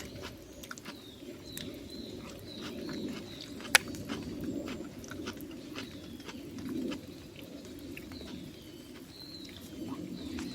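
Small birds chirping repeatedly in short, bending calls, over scattered sharp clicks and crackles, with one loud snap about four seconds in.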